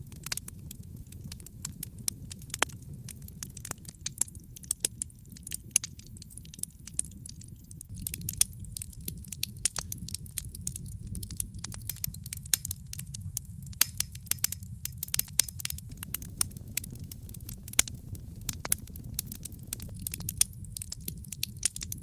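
Wood fire burning in a fireplace, crackling with many sharp irregular pops over a steady low rumble of the flames. The popping gets busier from about eight seconds in.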